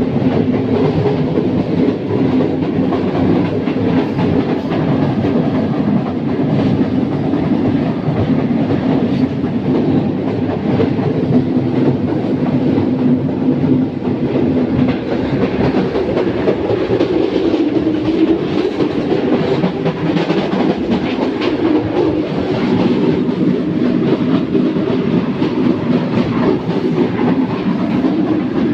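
A Karakoram Express passenger coach running at speed: a loud, steady track rumble with frequent short clicks from the wheels on the rails.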